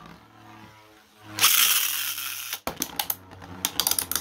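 Two 3D-printed Beyblade spinning tops launched into a plastic stadium: a loud rushing noise about a second in, then a fast, irregular run of sharp plastic clicks and knocks as the tops collide.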